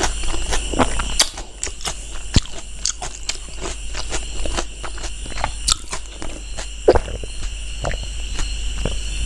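Close-miked chewing of a mouthful of pork rib curry and rice: a steady run of short mouth clicks and chewing sounds, with a few louder ones. Near the end comes a sip from a glass.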